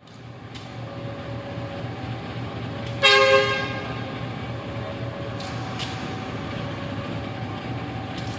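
Train horn giving one short blast about three seconds in, over a steady low engine rumble.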